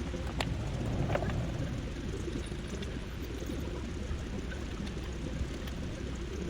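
Water from a hose rinsing Evapo-Rust and loosened rust sludge out of a cast-iron Chevrolet 350 engine block, a steady rushing and splashing.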